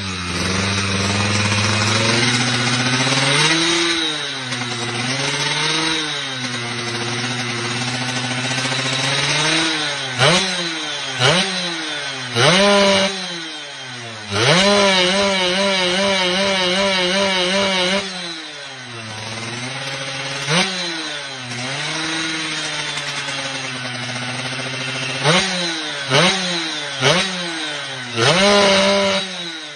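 Yamaha F1ZR two-stroke single-cylinder underbone engine on an oversized carburettor, idling with a deep, snoring 'ngorok' burble and revved in repeated quick throttle blips, with one longer hold at high revs about halfway through.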